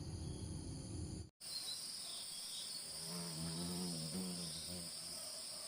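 Insects chirring in a steady high-pitched drone, with a brief low pitched sound in the middle. Before a sudden cut about a second in, a low rumbling noise lies under them.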